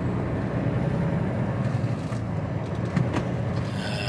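HGV lorry's diesel engine and road noise heard inside the cab, a steady low rumble while driving, with a brief high-pitched tone near the end.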